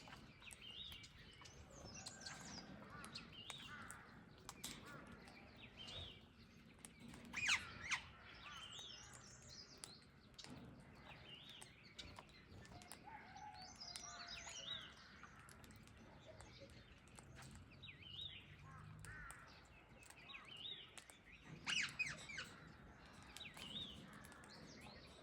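Faint chirping of small birds, with many short calls throughout and two louder, sharper calls, one about a third of the way in and one near the end.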